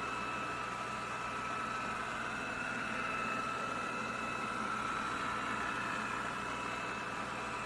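BPMIO robot vacuum running while cleaning: a steady whir of its suction fan with an even high-pitched whine over it.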